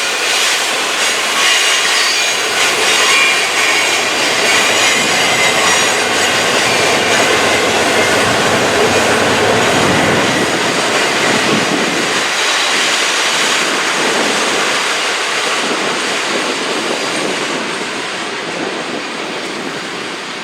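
Train cars rolling past with steel wheels squealing on the rail and a steady clatter, fading away near the end.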